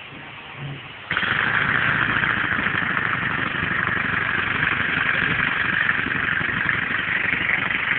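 Compressed-air engine starting suddenly about a second in and then running steadily, with a rapid, even beat and a hiss of exhaust air.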